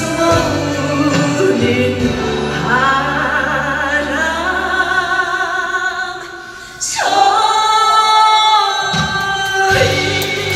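A woman singing a Korean ballad over a backing track. The music drops back briefly a little past the middle, then comes back in louder.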